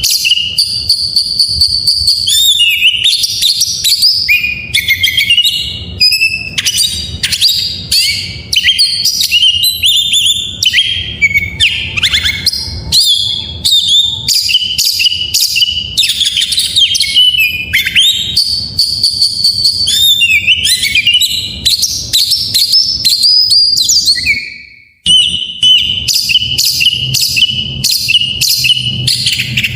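Oriental magpie-robin (kacer) singing a rapid, varied run of whistles, chirps and sharp notes, a 'full isian' song that mixes in imitated phrases of other birds. There is a brief break about five seconds before the end, and a faint low hum underneath.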